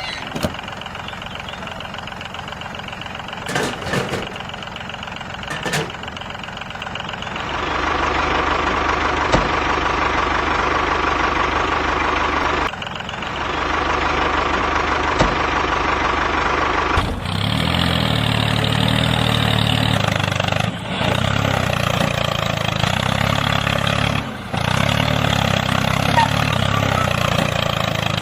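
Tractor engine running steadily while ploughing, getting louder about seven seconds in and changing to a deeper, throbbing note about seventeen seconds in. A few short knocks sound in the first six seconds.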